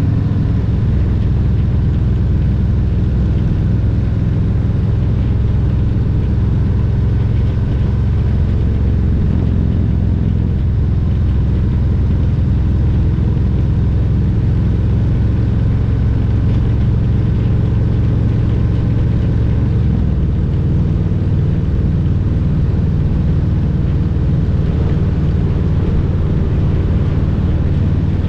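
Harley-Davidson Road Glide Special's Milwaukee-Eight 114 V-twin running steadily on the road, with a deep, even exhaust note. The engine note changes about two-thirds of the way through.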